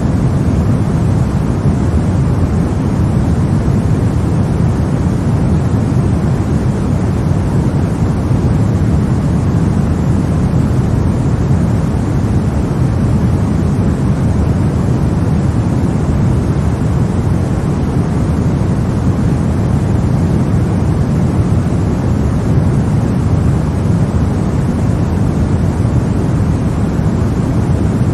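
Steady sleep noise for babies: an even, unchanging rush weighted to the low end, closer to a deep rumble than a bright hiss.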